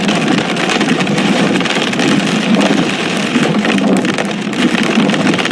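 Heavy hail pelting down: a loud, dense, continuous clatter of countless small impacts.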